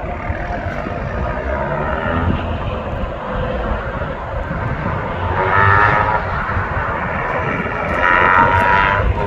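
Turbocharged four-cylinder engine of an HPA FR450-kitted 2017 Volkswagen Golf R accelerating hard. Its pitch rises in two runs, growing loudest about six seconds in and again near the end.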